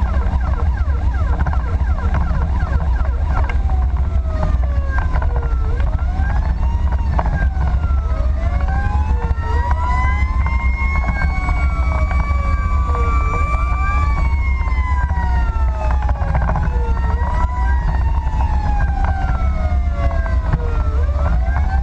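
Fire engine's siren on an emergency run: rapid yelping sweeps for the first few seconds, then long rising and falling wails, at times two tones crossing. Under it is the low steady rumble of the truck's engine and road noise.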